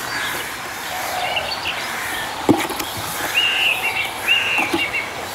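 Birds chirping in the background, with two short arched whistled calls about a second apart near the end. A single brief knock about halfway through is the loudest sound.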